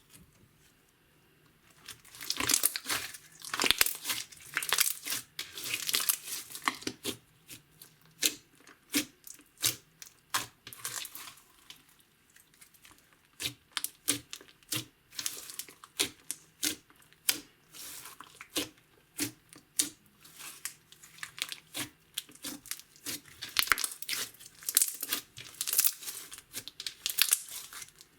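Slime being kneaded and stretched by hand, making rapid sticky clicks and crackling pops. It starts about two seconds in, is densest at first and again near the end, and thins to scattered pops in the middle.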